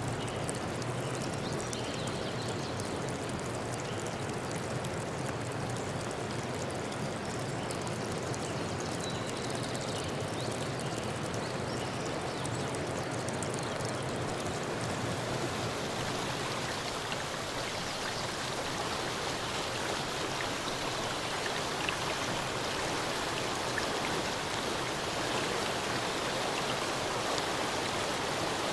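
Steady rushing water noise with faint scattered drip-like ticks, growing a little hissier about halfway through.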